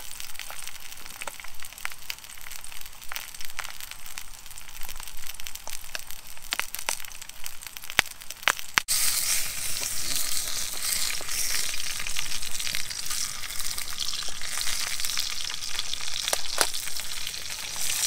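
Sausages frying in a small camping pan: scattered crackles and pops, then, about nine seconds in, a denser and louder steady sizzle.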